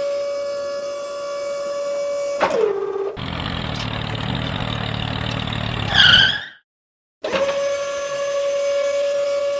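Steady high whine of a small motor, which drops in pitch about two and a half seconds in. It gives way to about three seconds of louder rumbling noise and a brief warbling sound, then cuts to total silence for about half a second before the whine returns.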